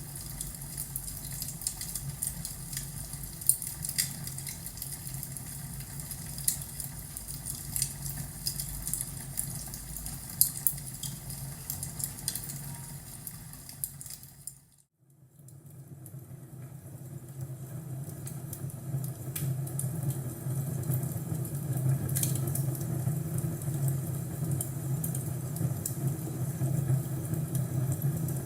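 Crackling fireplace: a wood fire's sharp, irregular crackles over a steady low rumble. About halfway through it fades almost to silence, then fades back in.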